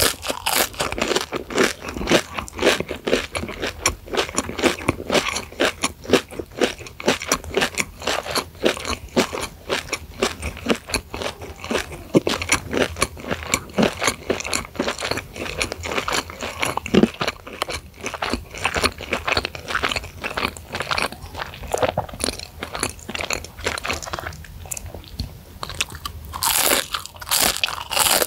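A person chewing deep-fried breaded crispy chicken sticks close to the microphone, with dense, rapid crunching throughout. A fresh, louder crunchy bite comes near the end.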